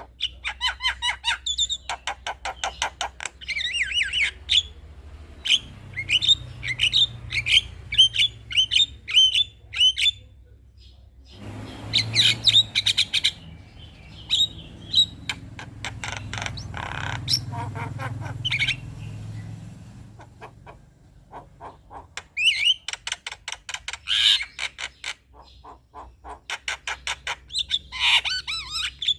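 Male Javan myna (jalak kebo) singing. Phrases of rapid clicking and rattling notes are mixed with short whistled notes and harsh squawks, with brief pauses between phrases.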